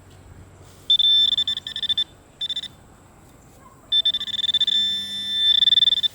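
Garrett ACE 250 metal detector giving a steady high-pitched beep as the search coil sweeps over a buried metal target: a tone lasting about a second, a short blip, then a longer tone of about two seconds near the end.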